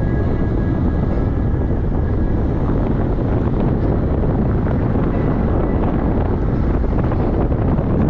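Steady, loud low rumble with a rushing noise over it, of the kind made by a moving vehicle and wind on the microphone.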